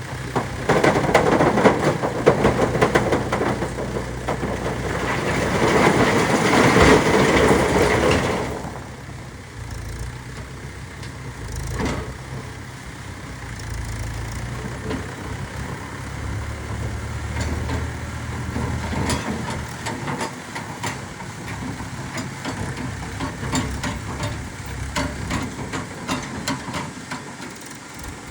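Diesel engine of a JCB 3DX backhoe loader working hard while loading rock for the first eight seconds or so, then dropping to a quieter steady run, with scattered knocks and one sharp knock about twelve seconds in.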